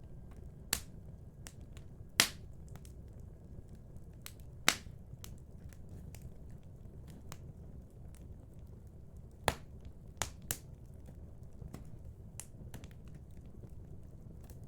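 Wood fire crackling and popping: scattered sharp pops, the loudest about two seconds in and four and a half seconds in and a few more around ten seconds, over a steady low rumble of the flames.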